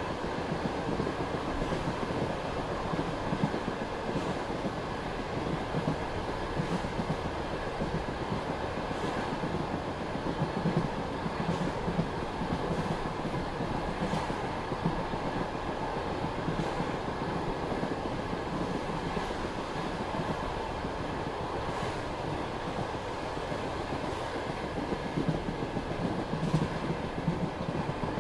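Passenger train running at speed: a steady rolling rumble of the coach's wheels on the track, with scattered sharp clicks as the wheels pass over rail joints.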